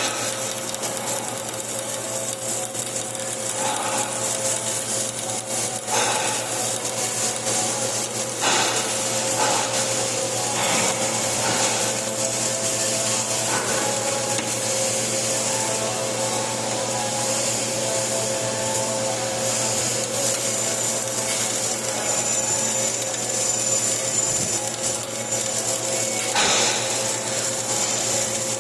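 Flux-cored arc welding: a steady crackling, sizzling arc over a constant hum, with a few sharper pops along the way.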